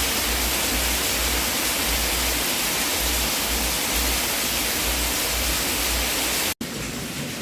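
Steady, loud rushing hiss over a low rumble that swells and fades irregularly. It cuts out abruptly for an instant near the end, and a quieter, different rushing sound follows.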